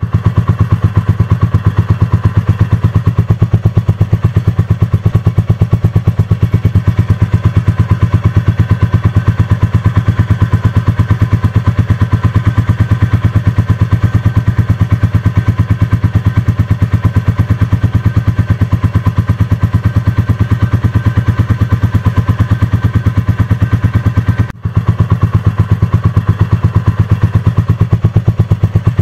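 Royal Enfield Classic 350's single-cylinder engine and exhaust running steadily at cruising speed, a loud fast even beat. It breaks off for an instant about three-quarters of the way through.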